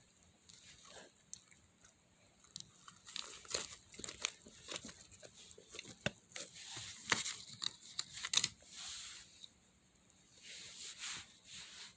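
Slime being handled: a run of wet crackles, small pops and clicks as it is stretched and pressed, busiest in the middle and fading near the end.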